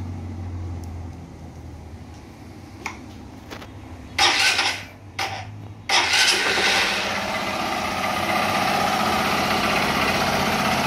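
Honda Titan 150 single-cylinder four-stroke motorcycle engine, just rebuilt with a new connecting rod, being started: two short bursts about four and five seconds in, then it catches at about six seconds and settles into a steady idle. It runs smoothly and quietly, with no knock from the new connecting rod.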